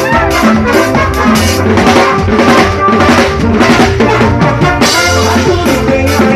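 Band music with a drum kit driving a fast beat, with sustained pitched instruments playing underneath.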